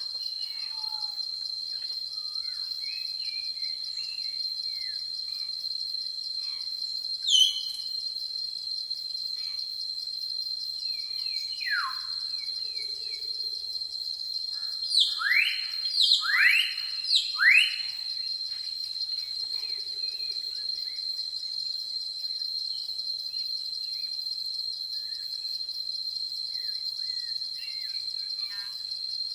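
Steady high-pitched drone of insects in forest, with bird calls over it: a falling call about a quarter of the way in, and past the middle a quick series of four loud calls, each sweeping upward.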